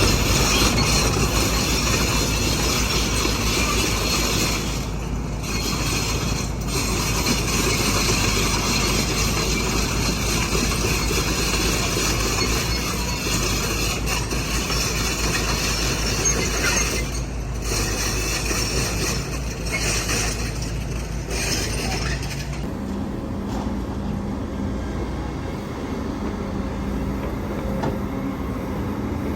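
Heavy earthmoving machinery at work: excavator and dump-truck diesel engines running with mechanical noise. About 22 seconds in the noise drops and a steadier engine hum remains.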